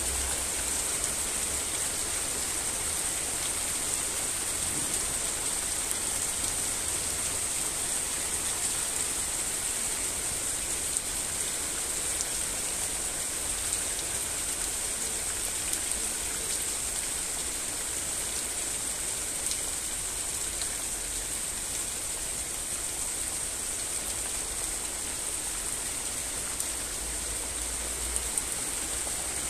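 Steady rain falling, an even hiss with now and then a faint tick of a drop.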